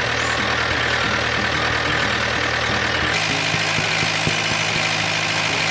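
Vehicle engine running steadily, its sound changing abruptly about three seconds in.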